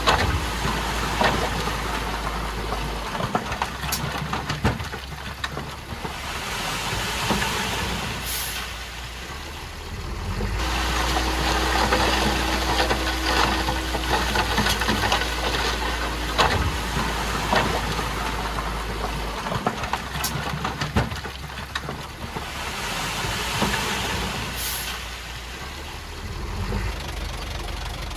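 Komatsu D51PX crawler bulldozer's diesel engine running under working load, swelling and easing every several seconds, with scattered metallic knocks and two short high hisses.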